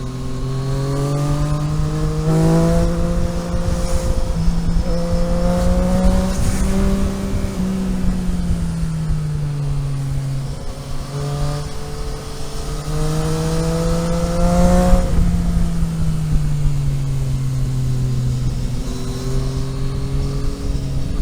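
Car engine pulling through the gears on a mountain road. The pitch climbs, drops at a gear change about two and a half seconds in, and climbs again. It then falls as the car eases off, rises again from about eleven seconds, drops at another shift near fifteen seconds, and settles to a steady cruise.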